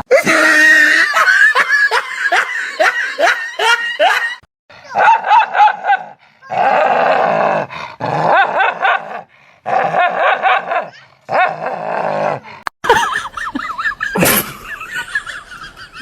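A dog barking and vocalizing: a run of quick yapping barks, then several longer wavering calls. There is a sharp loud knock near the end.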